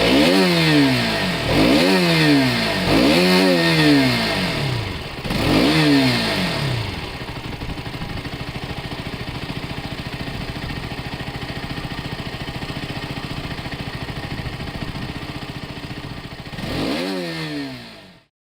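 Motorcycle engine revved in several quick throttle blips, the pitch jumping up and falling back each time, then settling to a steady idle. Near the end it is blipped once more and the sound cuts off suddenly.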